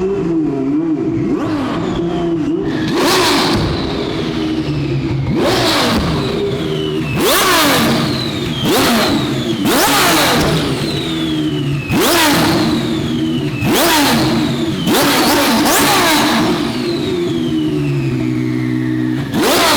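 Twin-turbo Ferrari F12 V12 repeatedly revved hard over a running engine, about nine sharp rev bursts, each followed by a falling high whistle as the revs drop.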